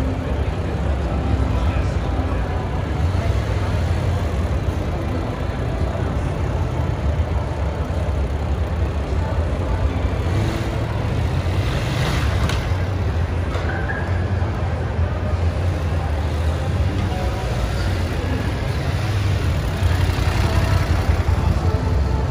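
BMW GS adventure motorcycle engine running at low revs as the bike is ridden slowly over a display ramp, with a brief louder spell about twelve seconds in as it comes down the slope.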